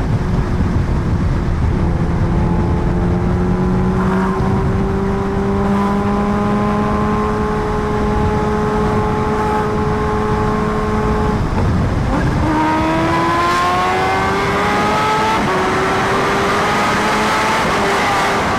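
Kawasaki Ninja H2R's supercharged inline-four pulling hard through the gears under wind noise. Its pitch rises slowly for about ten seconds, then drops at an upshift about twelve seconds in, climbs faster, and drops again at another shift a few seconds later.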